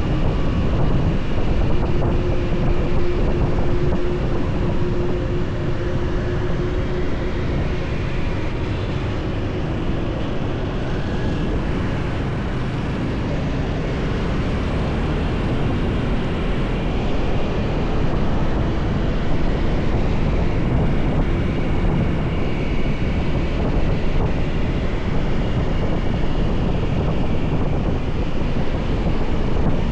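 Motorbike riding along a highway: a steady rush of wind over the microphone mixed with engine and road noise and the sound of traffic, with a faint engine tone audible for a few seconds early in the ride.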